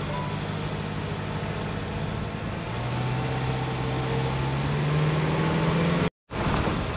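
Car engine running while driving uphill, its hum rising steadily in pitch over the middle seconds as it pulls harder. The sound cuts out for a moment near the end.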